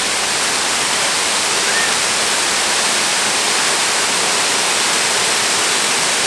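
Waterfall rushing steadily, a continuous loud hiss of falling water.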